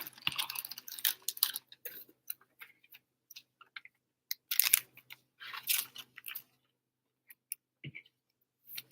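Trading cards being handled and shuffled at close range: scattered light clicks and soft rustles, with two longer rustling passes around the middle.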